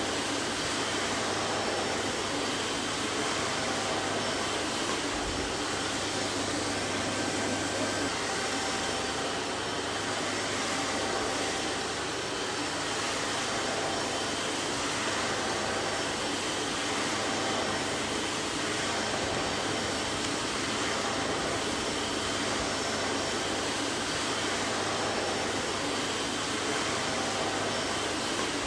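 Vacuum cleaner running steadily, a constant rushing hiss with a faint hum.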